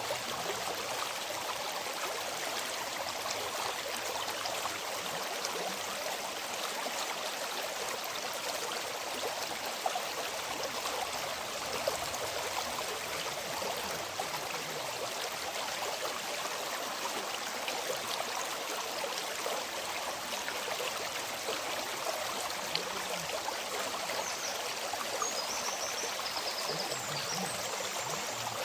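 River water flowing in a steady, even rush, with no break or change.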